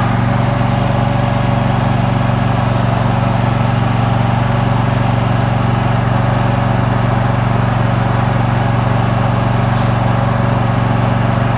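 Riding lawn mower engine running steadily under the rider while it drives along, heard loud and close.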